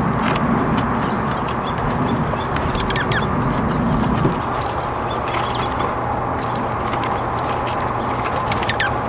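Small birds chirping: short, high calls scattered throughout, over a steady low rumble and hiss.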